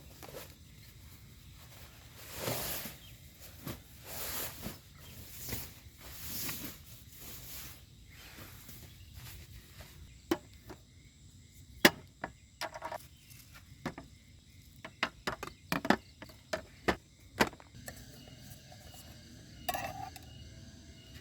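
Camp gear being handled: a few soft rustles, then a run of sharp clicks and knocks, some with a brief metallic ring, over faint night ambience.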